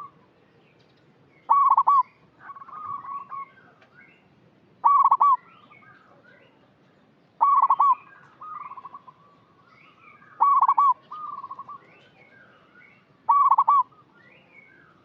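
Zebra dove (perkutut) cooing: five loud staccato call phrases, one every two and a half to three seconds, each a quick run of notes followed by a softer trailing coo.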